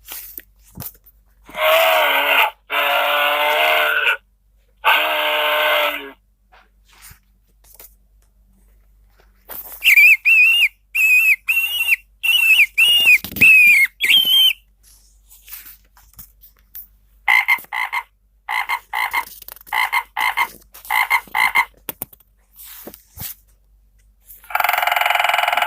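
Recorded forest animal calls from a children's sound book, played one after another with pauses between them. First come three held, pitched calls, then a fast run of high chirps, then a string of short pulsed calls at about two a second, and another held call begins near the end.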